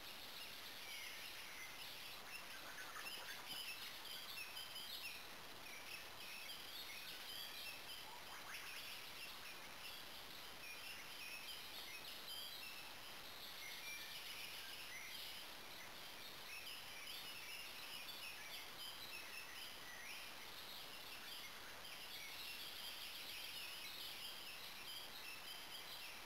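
Faint woodland birdsong: several birds singing in short chirps and phrases throughout, over a steady background hiss.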